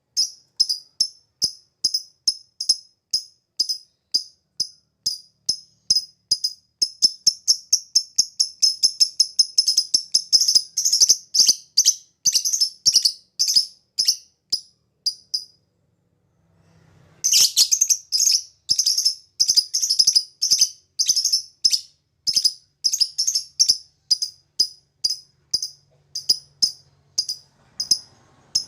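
Lovebird ngekek: a long string of sharp, high chirps repeated quickly, speeding up into a rapid run. The string breaks off about halfway for a second or so, then starts again.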